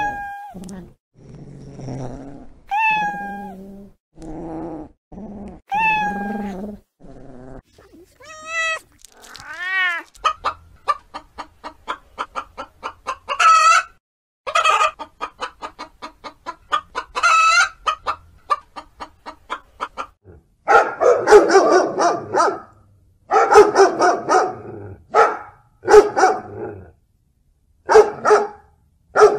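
A kitten meowing repeatedly, then a hen clucking rapidly with a few louder calls among the clucks, then a puppy barking in short bursts near the end.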